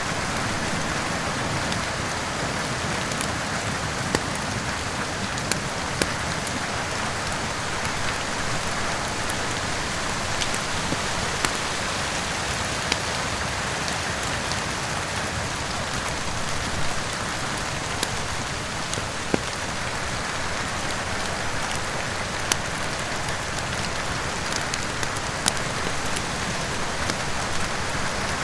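Steady heavy rain, with scattered sharp pops and crackles from a wood fire burning in a fireplace.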